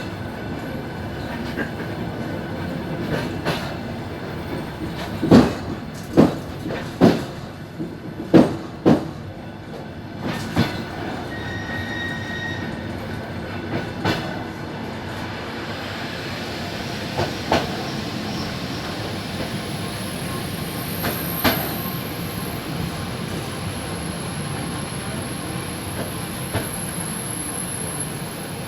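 Suburban electric train running, with a steady rumble and hiss of wheels on rail. About five seconds in comes a run of half a dozen loud clacks as the wheels pass over the track, then a few scattered ones. In the last third a faint high squeal from the wheels joins in.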